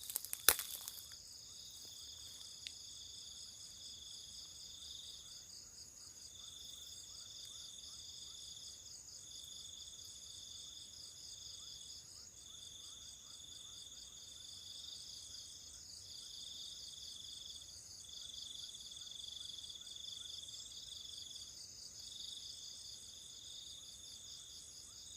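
Night insect chorus of crickets or katydids: steady high-pitched trilling, one voice repeating in phrases of about a second and a half with brief gaps, with a sharp click just after the start.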